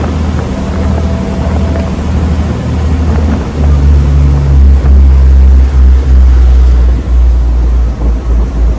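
Diesel engines of the ferry New Kasaoka running with a loud, steady low rumble, which grows louder and deeper about three and a half seconds in as the engines are throttled up.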